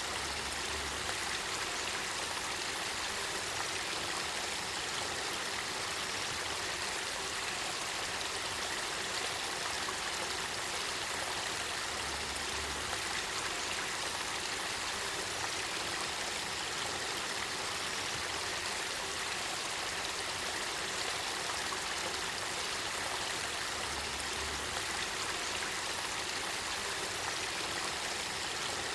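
Spring-fed river water flowing steadily, a continuous even rush of water.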